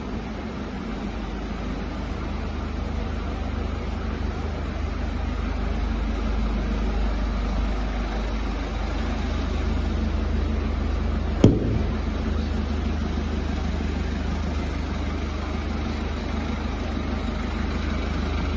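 Mercedes-Benz Sprinter 314cdi's four-cylinder diesel engine idling steadily, with a single sharp knock about eleven seconds in.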